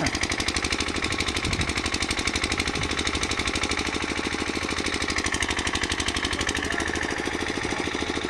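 Small engine running steadily, with a fast, even pulsing beat.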